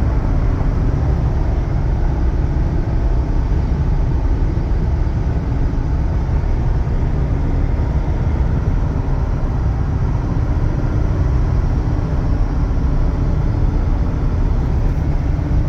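A 2016 Chevy Silverado 2500 gasoline pickup running, a steady low rumble with no change in pitch or level.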